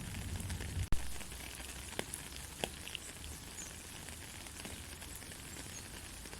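Gentle rain falling steadily, with a few louder single ticks. A sharp click about a second in is the loudest moment.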